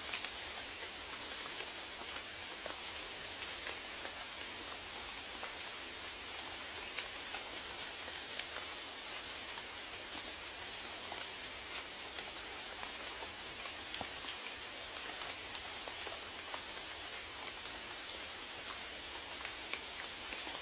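Steady rain falling, an even hiss with many individual drops ticking against a surface.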